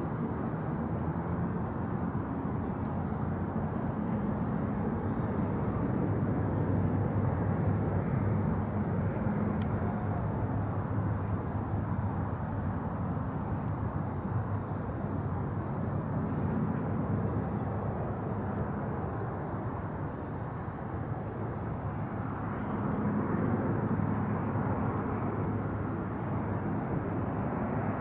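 Bombardier Dash 8 Q400 turboprop's engines and propellers droning steadily during a landing, swelling and easing a few times.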